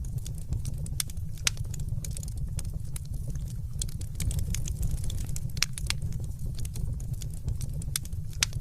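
Wood fire crackling: sharp, irregular pops and snaps over a steady low rumble of the flames.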